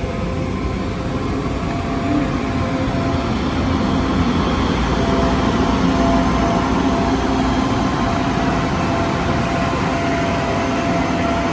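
Diesel engine of a farm machine running steadily, with a constant low rumble and a faint steady hum.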